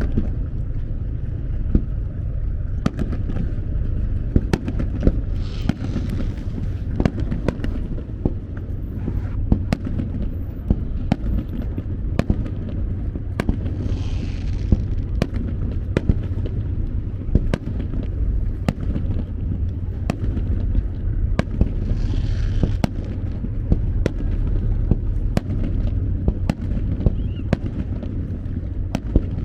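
Aerial fireworks display bursting: a string of sharp bangs, several a second at times, with spells of hissing crackle every few seconds, over a steady low rumble.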